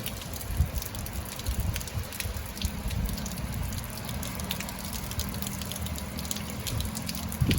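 Rain falling, with scattered sharp drop ticks over a steady wash and a low rumble underneath.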